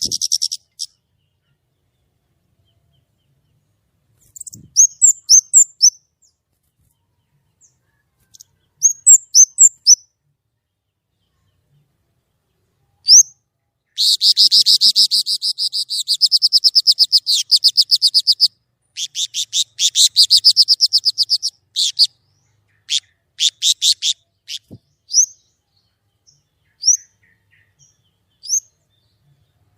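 A kemade songbird singing loudly and clearly in full song. It gives short phrases of high chirps, then two long, fast trills of rapidly repeated notes about halfway through, and ends with sparse single chirps.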